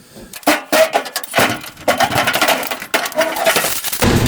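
Lots of loose nuts clattering and rattling out of the front of an old Chevy truck hood as it is lifted off, with sheet-metal knocks of the hood.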